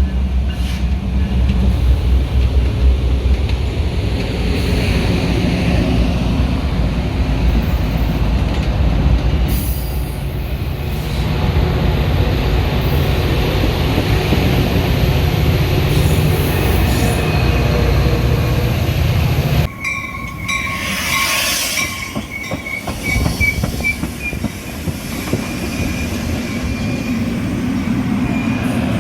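Metra commuter train rolling on the rails with a heavy low rumble; about two-thirds of the way in the rumble drops off suddenly and a high, wavering wheel squeal comes in.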